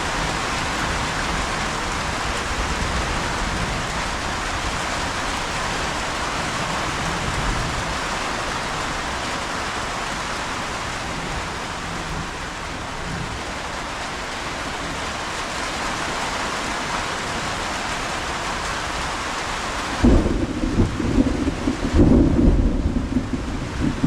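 Steady rain falling, an even hiss. Near the end it cuts abruptly to a louder, low rumble that swells and fades.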